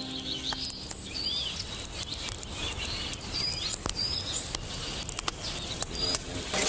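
Small birds chirping in short, high, bending notes over a steady outdoor hiss, with a few scattered clicks.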